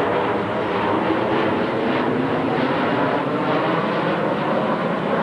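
Steady jet engine noise from F/A-18 Hornet fighter jets in flight, with no clear rise or fall.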